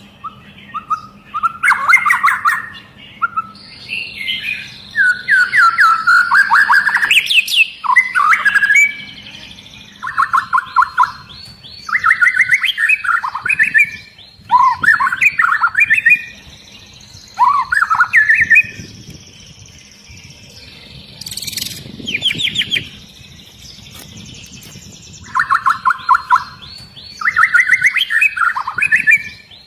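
White-rumped shama (murai batu) singing loudly in bursts of rapid repeated notes, the hard 'shot' phrases of a bird in full song, one burst after another with short pauses between.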